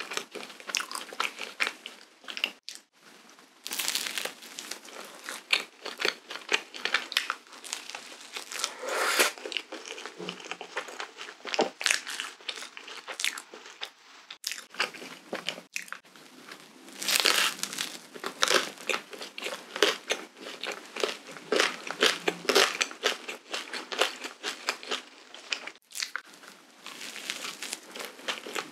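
Close-miked biting and chewing of cream-filled waffles: crunching of the waffle crust with soft mouth sounds, coming in louder spells every few seconds.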